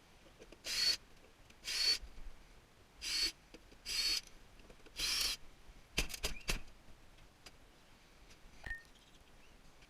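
A hand tool working on a tankless water heater's metal parts in short, repeated strokes, about five of them a second apart, each with a slight squeak. A quick run of sharp clicks follows.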